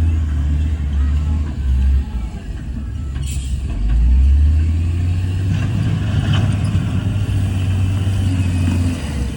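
Heavy diesel earthmoving machinery running with a deep, steady rumble that grows louder about four seconds in, and a short hiss about three seconds in.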